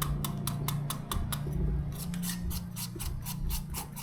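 Green papaya being cut into strips for som tum: a quick, even run of crisp cutting strokes, about four to five a second.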